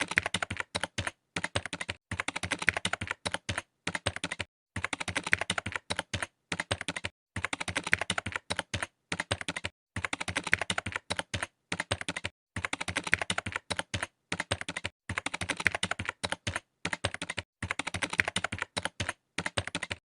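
Rapid keyboard typing clicks, in bursts of one to two seconds broken by short silent gaps.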